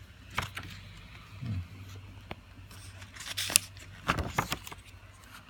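Handling sounds of a paper book being leafed: a few sharp clicks and short crisp rustles, bunched in two clusters in the second half.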